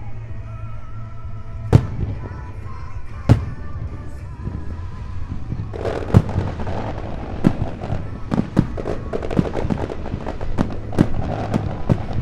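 Aerial fireworks bursting: two single sharp bangs about two and three seconds in, then from about six seconds a dense run of rapid bangs over crackling. Music plays faintly underneath.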